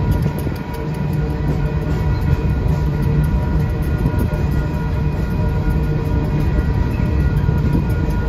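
Freight train's hopper cars rolling past: a steady rumble and rattle of steel wheels on the rails.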